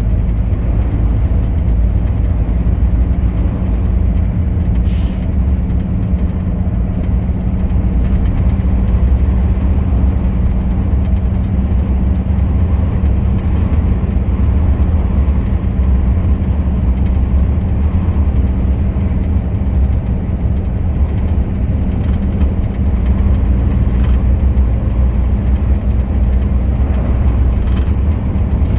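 Truck engine and road noise while driving: a steady, loud, low drone with an even engine tone that does not rise or fall.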